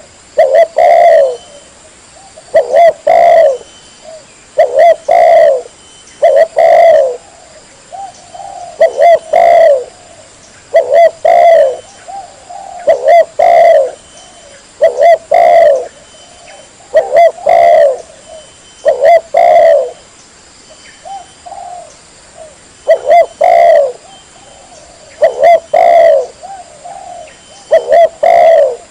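Spotted dove (tekukur) cooing loud and clear: a short phrase of a few coos, repeated about every two seconds.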